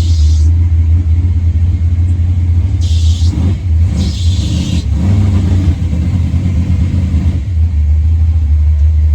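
Truck engine running with a deep, steady rumble that wavers and rises as it revs through the middle, with a few short hisses.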